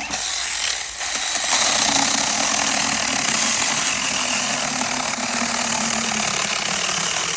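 Small handheld power saw starting up and cutting steadily through a thick branch of firewood, with a brief dip about a second in.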